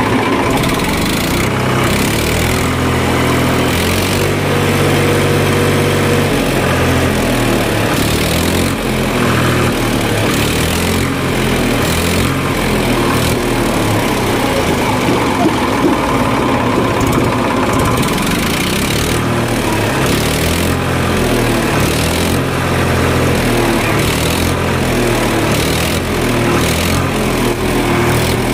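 An engine running steadily, its pitch stepping up and down at times, with short rushes of noise over it.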